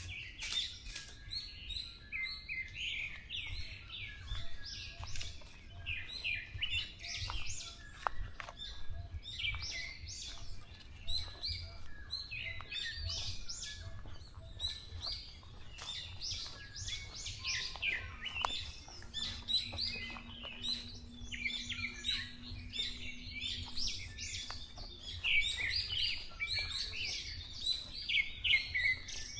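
Several small songbirds chirping and singing over one another in a dense, continuous chorus of short high notes, over a low steady rumble. A faint steady hum sounds for several seconds past the middle.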